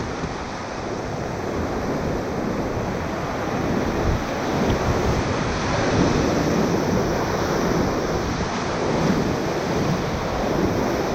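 Whitewater rapids rushing steadily around a raft on a high-water river, louder for a few seconds in the middle, with wind buffeting the microphone.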